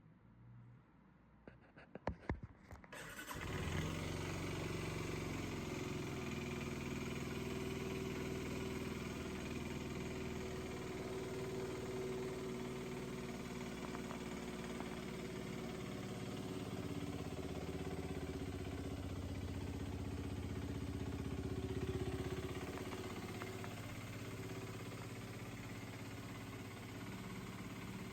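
Aprilia SX 125's single-cylinder four-stroke engine turned over on the electric starter about two seconds in, catching about a second later and then idling steadily.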